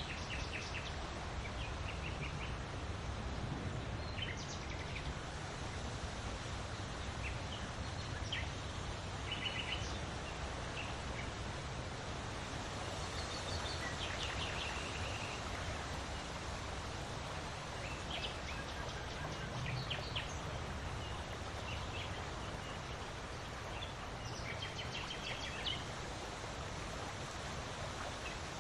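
Steady wind blowing with a low rumble, while small birds chirp in short calls and trills every second or two.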